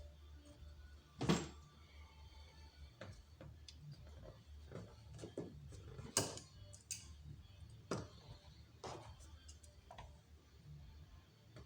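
Irregular sharp clicks and light knocks of hand tools and metal parts being handled during engine work, over a low steady hum. The loudest knocks fall about a second in, about halfway through and twice near the end.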